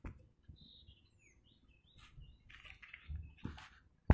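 Faint bird chirps in the background: a few short gliding calls in the first second and a half. They are followed by soft rustling and, near the end, a sharp click.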